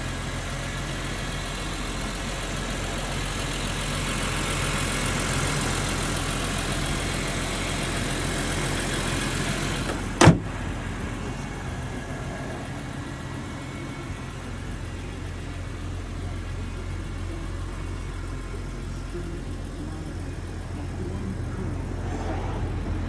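BMW Z4 M Coupe's S54 inline-six idling steadily. About ten seconds in, the hood is shut with a single loud bang, and the idle sounds duller after it.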